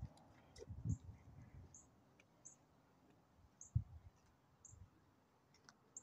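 Quiet outdoor background with a short, high bird chirp repeating about once a second, plus a few faint clicks and a couple of soft low thumps.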